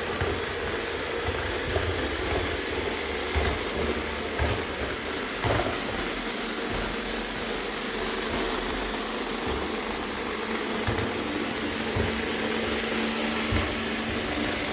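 iRobot robot vacuum running, a steady motor whir with a hum, and irregular low knocks every second or so: the grinding noise it has developed.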